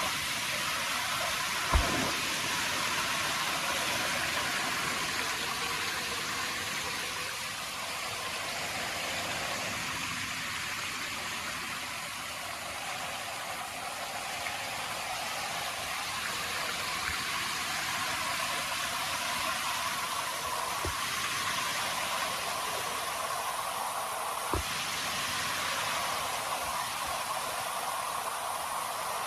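Steady outdoor hiss, with a sharp click about two seconds in and a few fainter clicks later.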